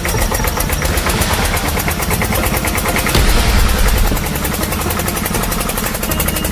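Heavy diesel engine sound of an excavator running, with a rapid, even clatter over a low rumble, growing a little louder for about a second around the middle.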